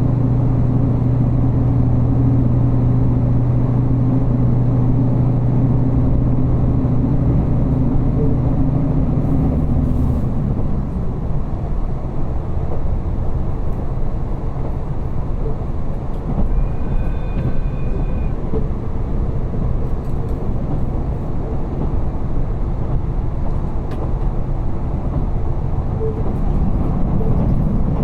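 Diesel railcar heard from inside the passenger cabin: the engine drones steadily, then drops away about ten seconds in, leaving the even rumble of the wheels on the rails as the train coasts. A short high tone sounds briefly around two-thirds of the way through.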